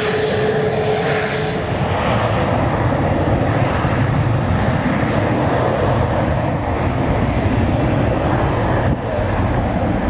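Fixed-wing aircraft engines running loud and steady, with a held whine for the first couple of seconds that then fades into an even rushing noise.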